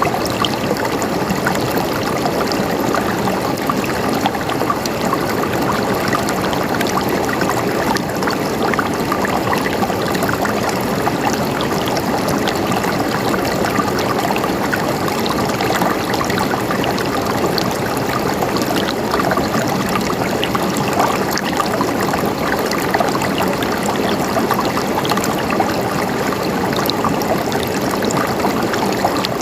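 Running water gurgling steadily, with many small splashes and trickles in an even, unbroken rush.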